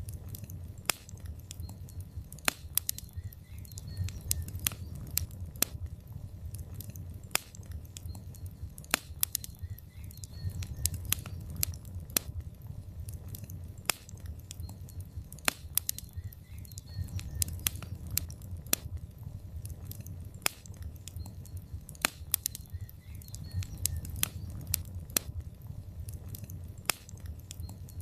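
Wood fire burning in a fireplace: logs crackling with frequent sharp, irregular pops over a low steady rumble of flame.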